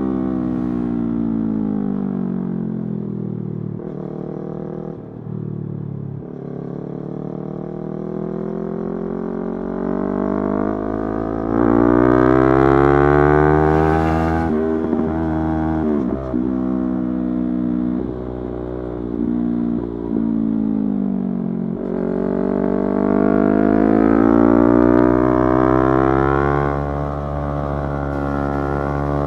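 Yamaha YZF-R3's parallel-twin engine under way, the revs falling off, then climbing through the gears with brief breaks at the shifts, and falling and climbing again. It is loudest at the top of the two long climbs, about twelve and twenty-five seconds in.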